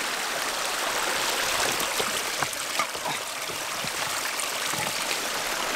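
Small mountain stream running and splashing steadily over stones.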